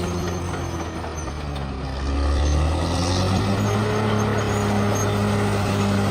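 Bulldozer's diesel engine running under load, a steady low drone that gets louder about two seconds in.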